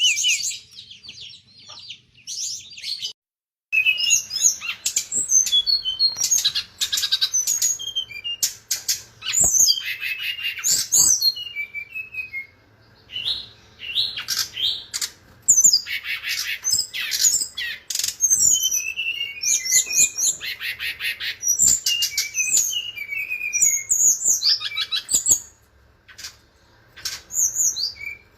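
Brown-chested jungle flycatcher (sikatan rimba dada coklat) singing a long, varied song of rapid trills and high whistles, with a short pause a couple of seconds in and a quieter spell near the end.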